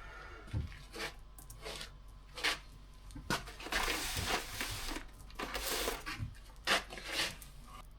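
Chainsaw chain being handled: irregular metallic clicks and rattles from the links, with a couple of longer rustling stretches about halfway through.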